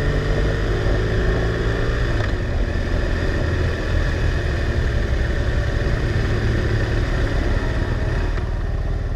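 BMW R1200R LC motorcycle's boxer twin engine running steadily while riding, with wind noise over the onboard camera's microphone.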